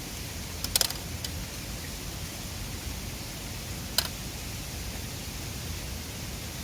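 Steady rush of a mountain river, with a few sharp campfire crackles: a quick cluster about a second in and a single pop about four seconds in.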